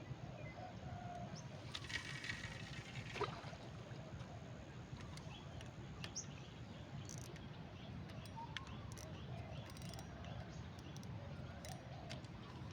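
Faint birds chirping and calling over a steady low background rumble, with a short rustle ending in a sharp click about three seconds in.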